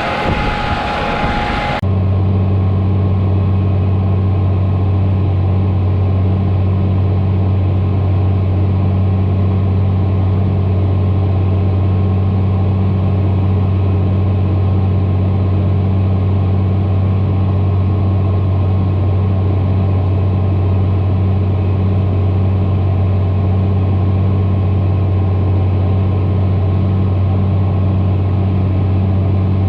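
John Deere tractor's diesel engine running at a steady speed under load, an even low drone. About two seconds in, a brighter, noisier sound cuts off abruptly and only the drone remains.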